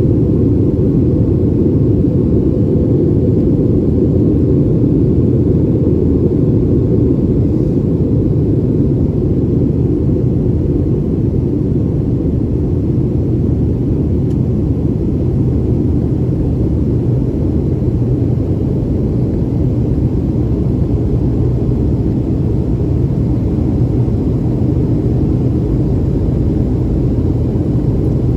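Steady low rumble of a Boeing 737's engines and airflow heard inside the passenger cabin in flight.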